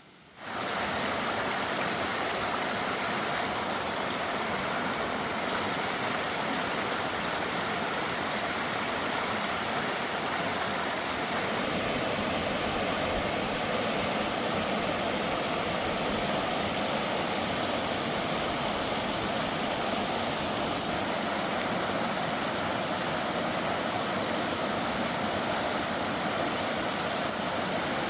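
Rushing mountain river, water cascading down over rocks in a steady, even rush that cuts in abruptly just after the start.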